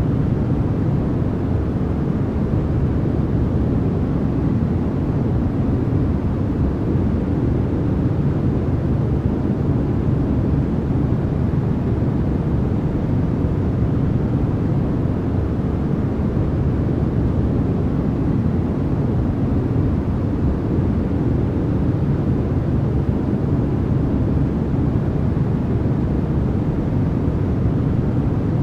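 Continuous white-noise sleep track: an even, unchanging noise with no events in it, deep rather than hissy, its energy weighted toward the low end.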